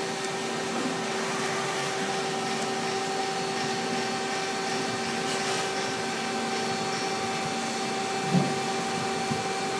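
Mitsubishi GE20A 5-axis CNC gear hobber running steadily while hobbing a cluster gear. The whine holds two constant tones over a broad hiss.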